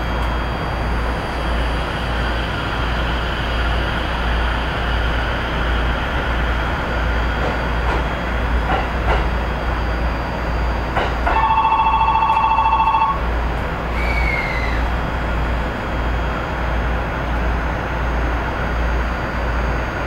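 Electric commuter train on the Narita Line running steadily, with a continuous rumble of wheels on the rails. About eleven seconds in, a two-tone ringing bell sounds for about two seconds, and just after it a short falling whine is heard.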